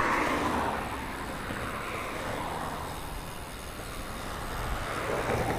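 Wind rushing over the camera microphone and road noise from a bicycle riding along a city street, a steady noise with no distinct events.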